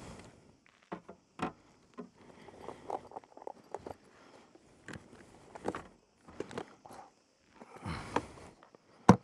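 Irregular handling noises: scattered clicks, knocks and rustles, with a sharp knock near the end.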